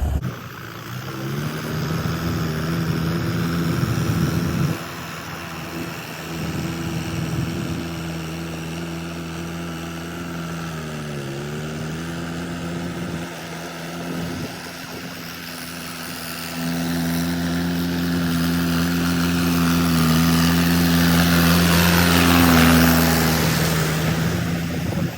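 Mahindra 475 tractor's diesel engine running steadily under the load of a rotavator. About halfway through, the engine note dips briefly and recovers. It grows louder over the last several seconds.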